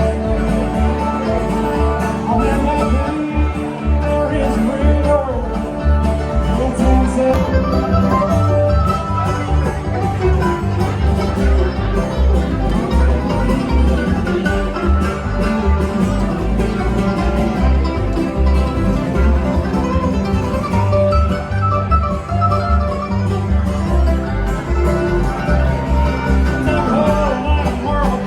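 Bluegrass music: banjo and guitar picking over a bass line that moves from note to note at a steady beat.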